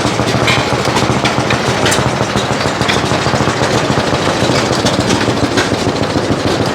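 Engine running steadily at idle with a fast, even knocking beat, and a few sharp clicks over it.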